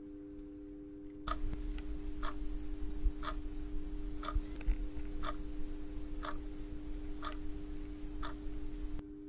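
Clock ticking evenly, a louder tick about once a second with a fainter tick between. It starts about a second in and stops abruptly near the end, over a steady low hum.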